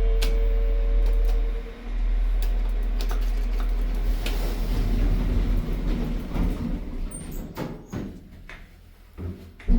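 Passenger lift's sliding doors opening after it arrives at the ground floor, over a low rumble and a steady hum that cut off about a second and a half in. After that comes a quieter mechanical rumble with scattered clicks that fades away, then a sudden knock near the end.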